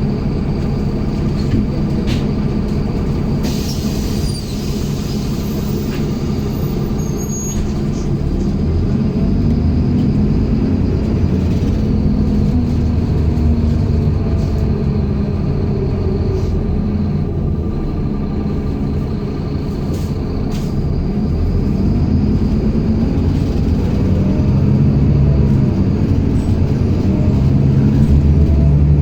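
Inside a MAZ-107.485 city bus: the diesel engine and drivetrain running as the bus pulls away, the engine note rising as it accelerates, with a short hiss of air about four seconds in.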